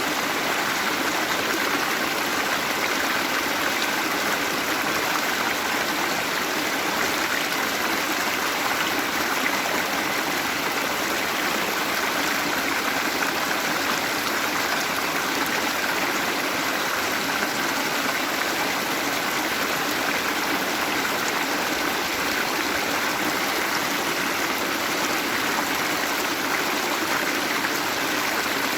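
Waterfall with running water splashing in a steady, even rush.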